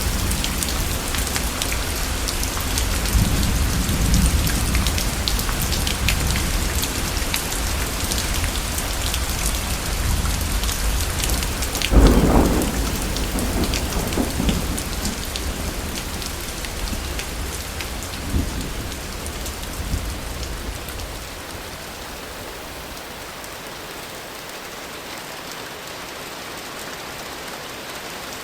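Heavy rain falling steadily with low rumbling thunder; about twelve seconds in a sharp thunderclap cracks and rolls off, followed by fainter rumbles. After about twenty seconds the low rumble fades and only lighter rain remains.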